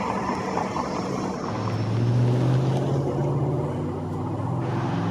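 Steady low engine hum of a motor vehicle over background noise, growing louder about a second and a half in.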